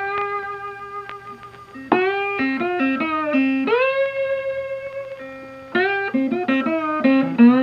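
Background music: a solo electric guitar playing a slow melodic phrase, its notes bent and slid into pitch.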